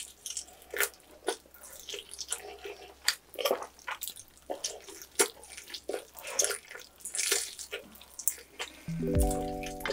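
Close-miked wet chewing, lip smacks and mouth clicks of someone biting into and eating a roasted pork knuckle. Music with held notes begins about a second before the end.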